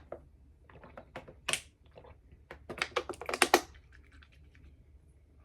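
A run of sharp, crisp clicks and crackles, scattered at first and then packed tightly together for about a second near the middle, where they are loudest.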